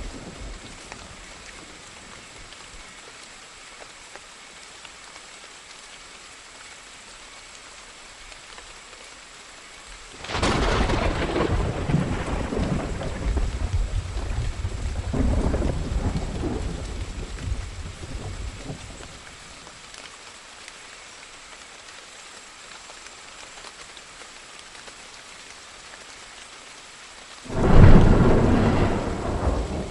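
Steady rain with thunder: a long rolling peal starts about ten seconds in and fades after about eight seconds, then a sudden, louder thunderclap rolls in near the end.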